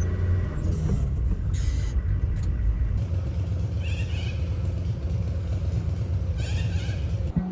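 Low, steady rumble of a vehicle on the move, with a few brief high chirps over it.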